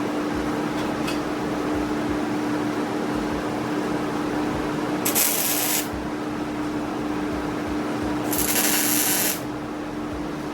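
Welding arc crackling steadily, with a steady hum underneath. Two short bursts of sharp hiss come about five and eight seconds in.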